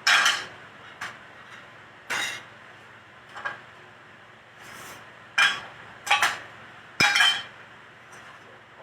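Dishes, pots and utensils being handled while preparing food: a string of about eight separate clinks and clanks at irregular intervals, some ringing briefly.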